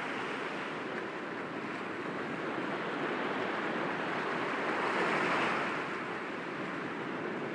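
Sea waves breaking gently against rocks in a continuous wash, with one wave swelling and breaking about five seconds in.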